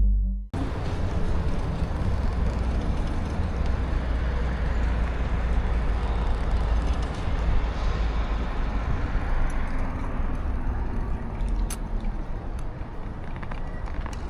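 Street noise while riding an e-bike: a steady low wind and road rumble with urban traffic, with a few sharp clicks near the end.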